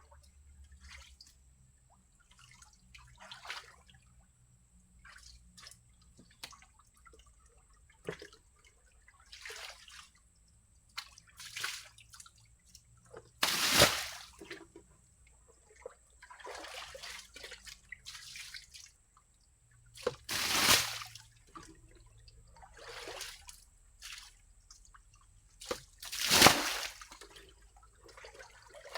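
Water splashing and sloshing in shallow water in irregular bursts, three of them much louder than the rest.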